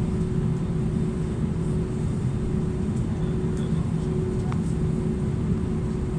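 Cabin noise inside an Airbus A320-214 on the ground after landing: a steady low rumble with a constant hum and a few faint clicks.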